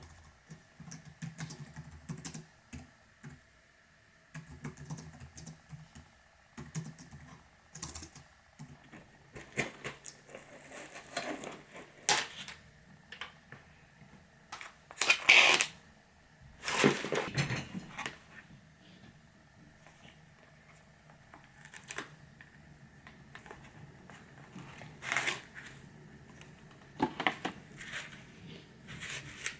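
Typing on a computer keyboard, a scatter of quick key clicks, with a few louder rustling sounds about halfway through.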